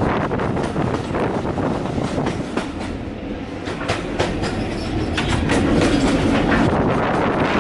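A railway carriage running along the track, its wheels clicking over the rail joints with a steady rumble underneath; the clicks come in a run in the middle.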